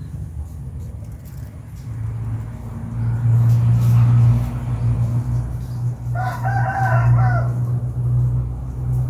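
A rooster crows once, for about a second, over a steady low motor hum.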